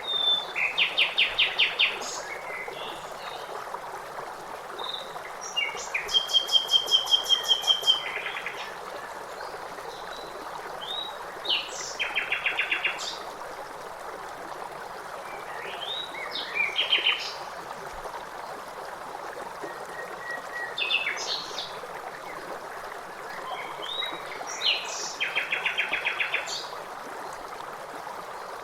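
Songbirds singing short phrases every few seconds, many ending in a fast trill, with a very high thin trill a few seconds in, over the steady rush of flowing water such as a stream.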